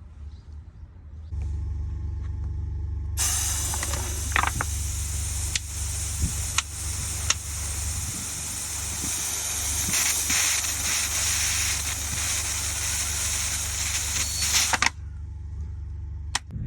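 A steady low mechanical hum, like an engine running, with a loud hiss of rushing air or spray that starts abruptly about three seconds in, carries a few sharp clicks, and cuts off suddenly about twelve seconds later.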